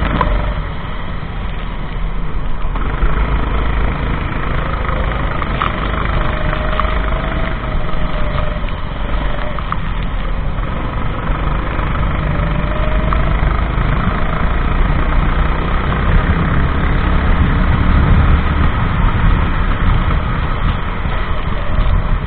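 Go-kart engine running at race speed, its revs rising and falling as the kart goes through the corners, over a constant heavy low rumble.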